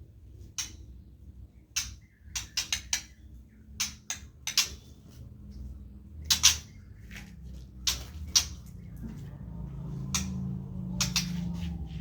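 Caged birds giving short, sharp chip calls, mostly in quick clusters of two to four, over a low steady hum.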